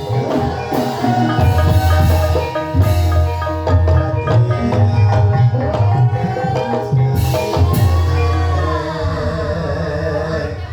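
Gamelan music accompanying an ebeg horse dance: mallet-struck bars and gongs play steady interlocking notes over deep drumming.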